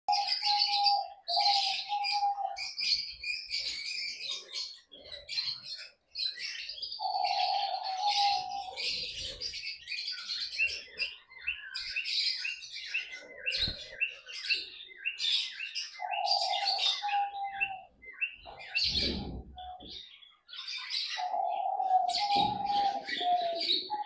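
Dense, constant high-pitched chirping and chattering of a room of pet birds, lovebirds among them. A lower, wavering tone comes and goes about four times, and there is one dull thump about three quarters of the way through.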